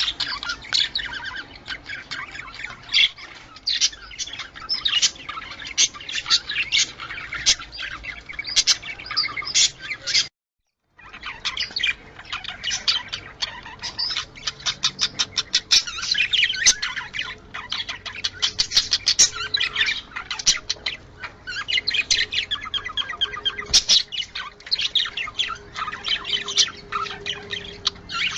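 Budgerigars chattering: many quick, overlapping chirps and short squawky calls in a continuous stream, with a brief dropout to silence about ten seconds in.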